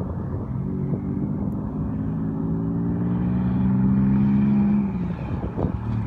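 Car engine accelerating, its pitch rising slowly and getting louder, then dropping away about five seconds in.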